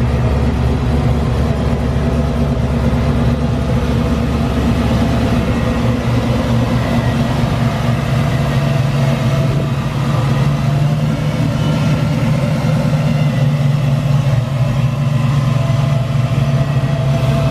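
1995 Mustang SVT Cobra's supercharged 302 cubic-inch V8 with headers, idling steadily.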